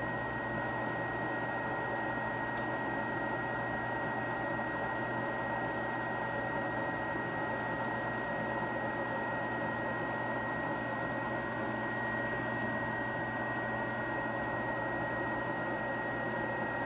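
Gas furnace running with its burner lit: a steady whirring noise with a thin steady high tone and a low hum underneath.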